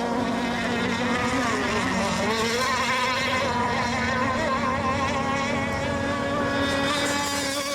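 Several radio-controlled racing boats' small engines running together, their whines overlapping and wavering up and down in pitch as the boats circle before a race start.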